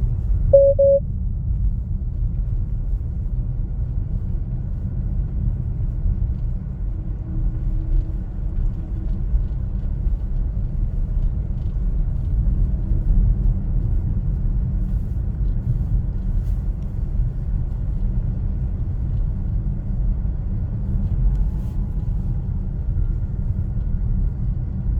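Steady low rumble of a Tesla's tyres and road noise while it drives on a snowy road, with a short beep about half a second in.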